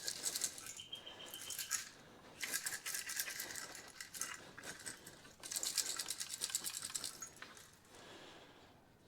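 Flux and solder sizzling and crackling as the seams of a heater core's tanks are heated, in three spells of a few seconds each.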